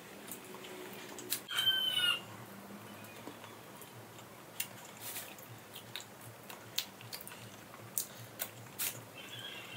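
A bird calls once, briefly, about one and a half seconds in, with a fainter call near the end. Light clicks and taps from fingers picking food off a steel plate come through the rest of the time.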